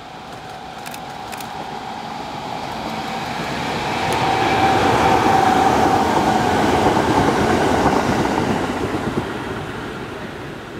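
JR East 701 series electric train passing close by, with a steady whine in its running noise. It grows louder as the train approaches, is loudest for a few seconds midway as it goes by, then fades as it moves away.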